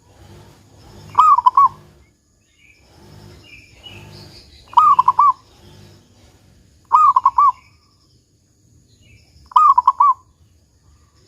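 Zebra dove (perkutut) singing: four short phrases a few seconds apart, each a quick run of about three cooing notes.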